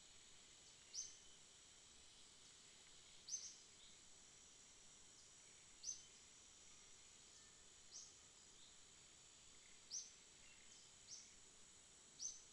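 Night insects making a steady, high-pitched drone, with a short, sharp, high chirp repeating every two seconds or so, about six times.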